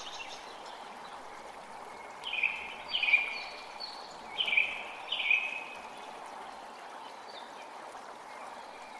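Steady rushing of a forest creek, with a songbird giving four short falling calls in two pairs between about two and six seconds in.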